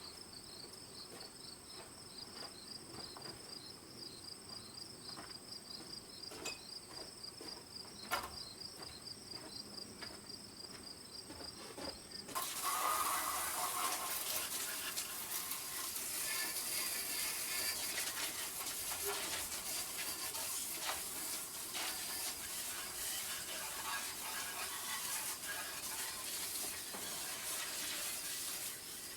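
Insects chirping with a steady high trill. About twelve seconds in, a louder, even hiss starts suddenly and runs on.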